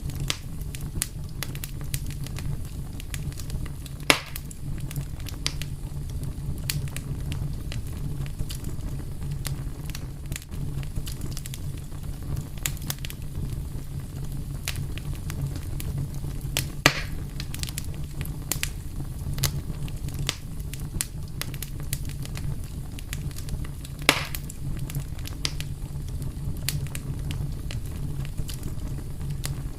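Wood fire crackling steadily over a low rumble, with many small snaps and three louder pops, about four seconds in, near the middle, and about six seconds before the end.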